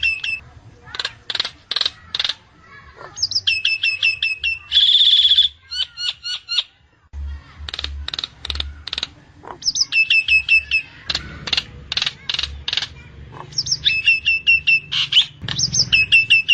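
Nias hill myna calling: repeated runs of quick notes that each slide down in pitch, mixed with sharp clicks, and one loud held screech about five seconds in.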